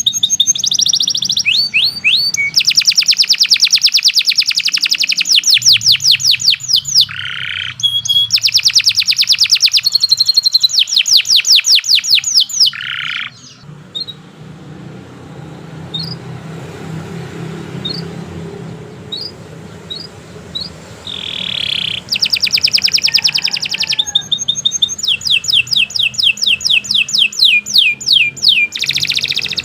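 Domestic canary singing long, rapid trills of repeated notes, with short lower buzzy phrases between them. About halfway in the song stops for several seconds, broken only by a few single chirps, then the rapid trilling resumes.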